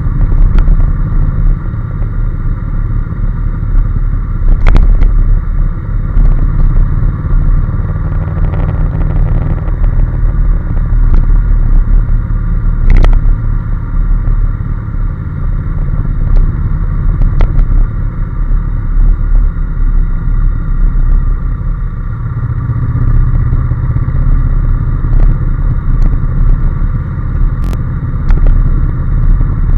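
Honda NC750S motorcycle on the move, its parallel-twin engine running steadily at road speed, with a few sharp clicks.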